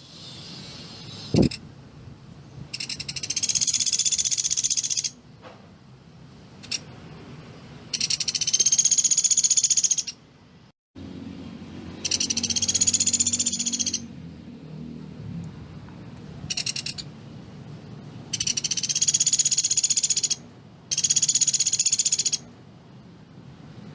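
Pelatuk beras, a small woodpecker, calling in dense, rapid high-pitched trills, about six bursts of one to two seconds each with short pauses between. A single sharp click comes about one and a half seconds in.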